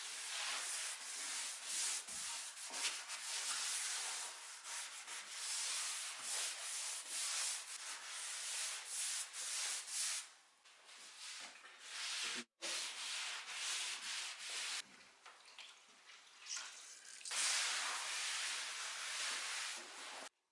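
Wood being hand-sanded with abrasive paper in quick, uneven back-and-forth strokes, with a momentary break about halfway. It stops abruptly near the end.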